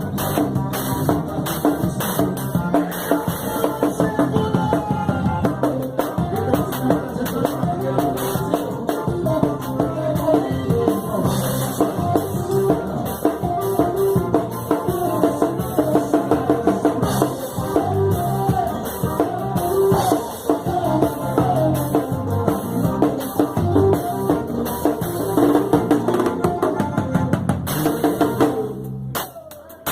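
A band playing with a drum kit keeping a steady beat under bass and melody instruments; the music falls away and stops near the end.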